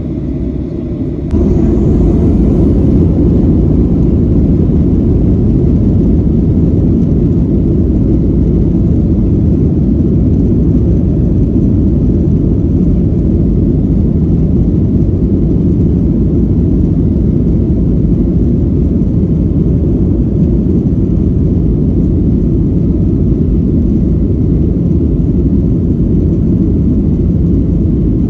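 Steady low rumble of engine and airflow noise inside a Boeing 737-900's cabin. It steps up in loudness about a second in, then holds even.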